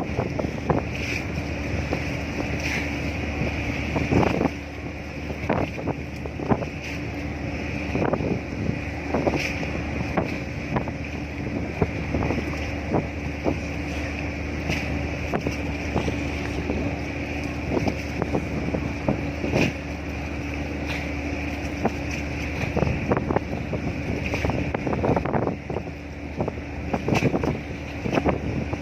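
A vessel's engine running with a steady low hum, under constant wind noise on the microphone and irregular short knocks and gusts.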